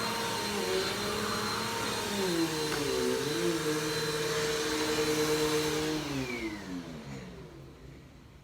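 Vacuum cleaner motor running steadily, its pitch dipping briefly and recovering. About six seconds in it is switched off and winds down, its whine falling in pitch until it fades out.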